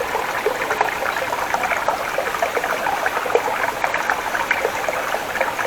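Small forest stream babbling and trickling steadily over stones.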